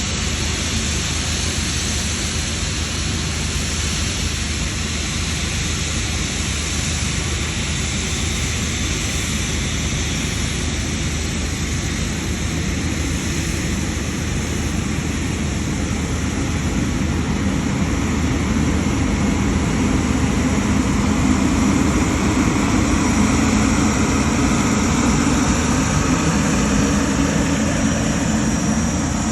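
GE90 turbofan engines of a Boeing 777 running with a steady jet roar and a faint high whine, growing louder a little past the halfway point.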